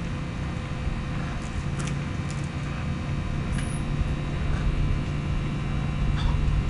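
A steady low motor hum with a held pitch, like an engine running, with a few short sharp clicks over it, mostly around two seconds in.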